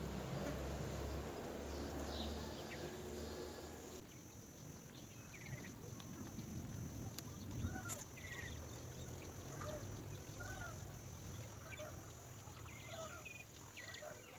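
Small birds chirping: many short, curved calls scattered irregularly from about four seconds in, after a few seconds of low steady background rumble.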